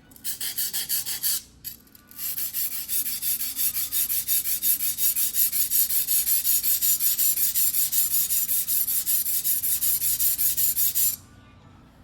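A white-steel fugu-hiki knife blade is stroked back and forth on a whetstone in quick, even strokes, about five a second. There is a short run of strokes, a brief pause, then a long steady run that stops near the end.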